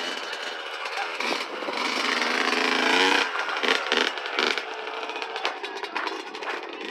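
Motocross dirt bike engine revving up as the rider accelerates, rising in pitch for about three seconds, then the throttle cut and uneven engine noise as it comes off the gas.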